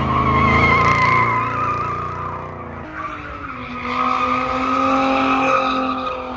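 A car's tyres squealing in a long skid while its engine revs high, as in a burnout or drift. The squeal swells twice, about a second in and again around five seconds.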